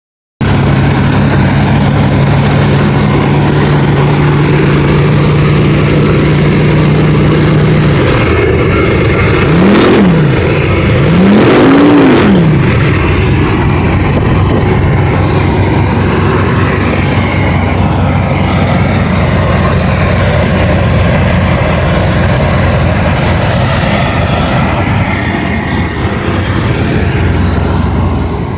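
Truck engine running at a steady fast idle, then dropping back and being revved twice in quick succession, the second rev higher, before settling to a lower steady idle.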